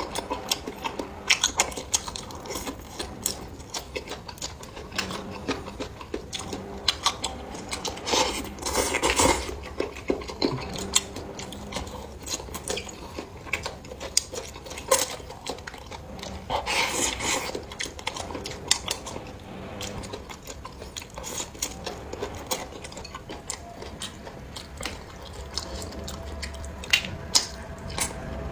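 Eating at close range: many small clicks of utensils against dishes, with chewing, and two longer noisy stretches of eating sound, one about a third of the way in and one a little past the middle.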